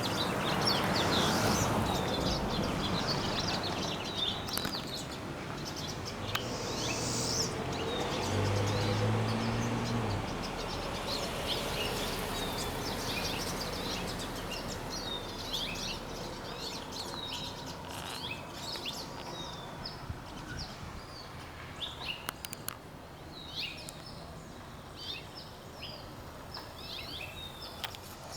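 Many small birds chirping and singing at once, from several directions, with quick, high, short notes overlapping throughout. Under them is a low background rumble that fades away about halfway through.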